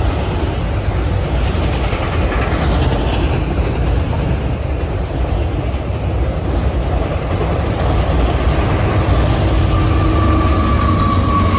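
Norfolk Southern train passing close by, a steady heavy rumble of wheels on rail with some clickety-clack. A thin high tone comes in near the end.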